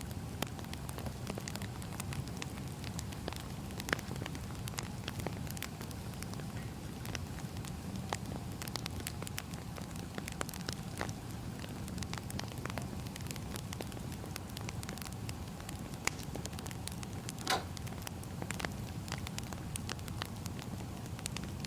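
Wood fire burning: a steady low rumble with irregular crackles and pops, and one louder snap late on.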